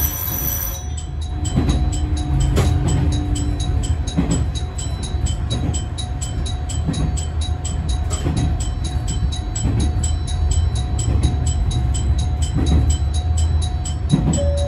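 Diesel railcar running along the line: a steady low rumble of engine and wheels under a faint steady whine, with a light, regular ticking about three to four times a second. Near the end a falling two-note chime sounds on board.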